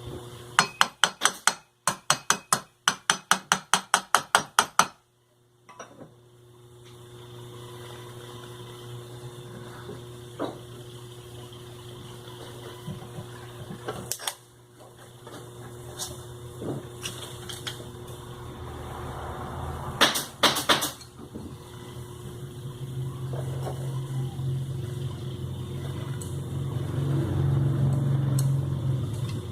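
Sewing machine's electric motor humming steadily, growing louder over the last several seconds. In the first five seconds there is a fast, even run of sharp knocks, about five a second, and a few louder clicks come about two-thirds of the way through.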